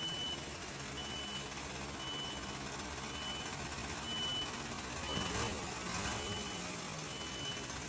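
Reversing alarm beeping steadily, about once a second, over a diesel engine running: a machine backing up while a combine harvester is unloaded.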